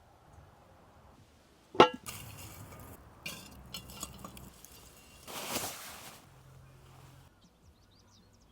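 A sharp ringing clink of cookware, followed by a few seconds of clattering and handling of dishes, and a short hiss about five seconds in. Small birds chirp faintly near the end.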